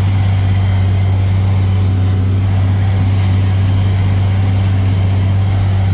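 Tractor pulling a forage chopper, running steadily: a constant low drone heard inside the tractor cab.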